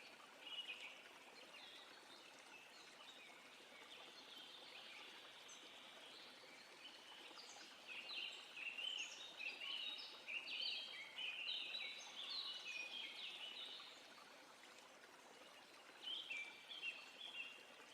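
Wild birds singing: quick runs of short, high chirping notes, busiest in the middle stretch and again near the end, over a faint steady background hiss.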